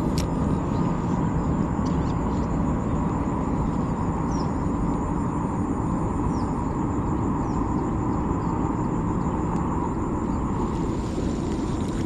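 Steady outdoor ambience of a flooded rice field: a continuous low rush, with insects trilling steadily at a high pitch and a few faint short chirps.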